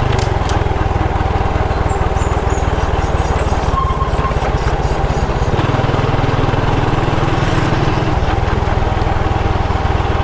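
Motorcycle engine running steadily while riding, its low note shifting for a couple of seconds past the middle.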